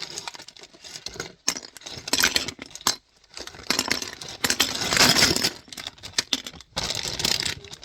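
Small plastic LEGO pieces clattering and rattling together, in a dense spill of clicks in the middle as a bagful is poured out.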